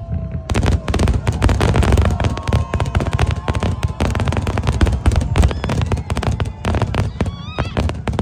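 Aerial fireworks shells bursting in a rapid barrage of bangs and crackles that thickens about half a second in and keeps up without a break.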